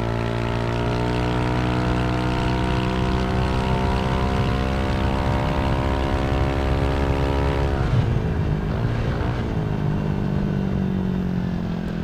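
Yamaha Aerox 155 single-cylinder engine running through a Villan SR1 aftermarket exhaust. The revs are held high and steady for several seconds, then drop sharply about eight seconds in and settle to a lower steady note near the end.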